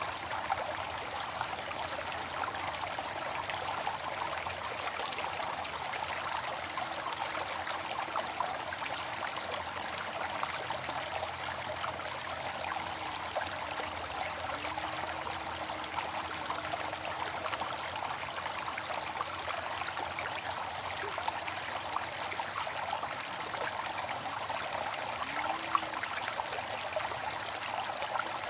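Water fountain splashing steadily, falling water with a fine patter of droplets.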